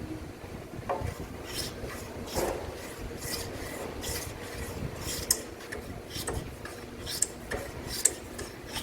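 Carpenter's hand tools working timber: a run of short scraping strokes on wood, with a few sharp clicks about five seconds in and near the end.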